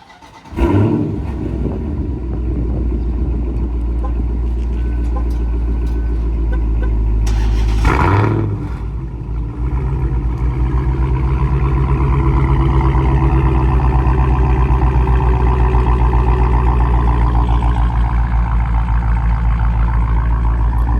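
Dodge Challenger Hellcat's supercharged 6.2-litre Hemi V8 running loud through its mid-muffler-deleted exhaust, a steady low rumble with one brief louder swell about eight seconds in.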